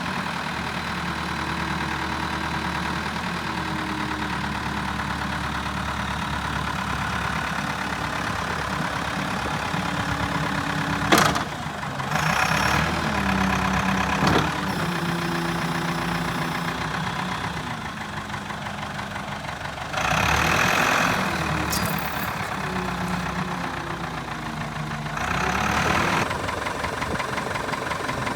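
Kalmar DB 4-500 diesel forklift engine running, its pitch stepping up and down between idle and higher speeds. There is a sharp knock about midway and two louder spells of hiss later on.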